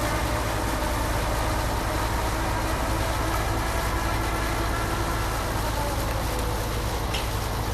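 Concrete pump truck running: a steady engine and hydraulic drone with a deep rumble, and faint whining tones, one of which slides down in pitch about five to six seconds in.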